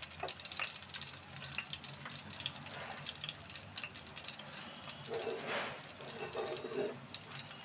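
Chopped green chillies sizzling and crackling in hot oil in a frying pan, a steady fine crackle of small ticks. About five seconds in there is a brief louder swell.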